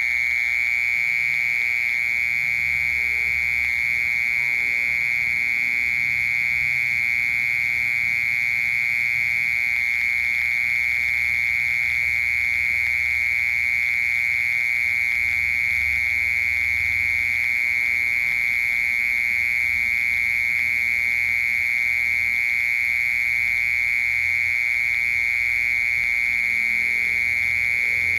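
Mole cricket singing: one continuous, unbroken trill at a steady high pitch.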